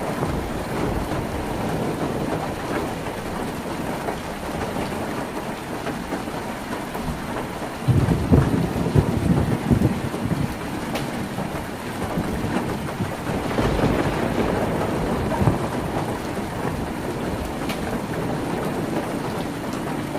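Heavy rain on a tin roof, a dense steady patter. A louder low rumble of thunder comes about eight seconds in and lasts about two seconds.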